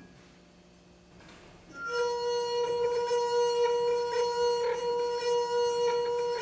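Crystal glass singing as a wet finger circles its rim: a steady pure ring that starts about two seconds in and holds, swelling slightly with each pass of the finger.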